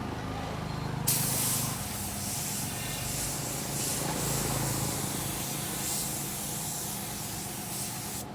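Compressed-air paint spray gun spraying: a loud, even hiss that starts suddenly about a second in as the trigger is pulled and cuts off near the end when it is released.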